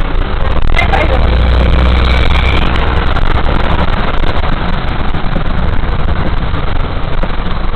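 A car driving through a flooded street, heard from inside the cabin: the engine and tyres make a low rumble that is heavier in the first few seconds, under a steady hiss of water.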